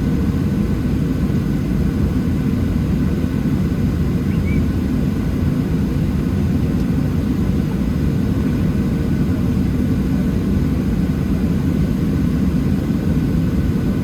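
Steady low rumble inside the cabin of a Boeing 737-700 on the ground, its CFM56-7B jet engines at idle, with faint steady whine tones above the drone.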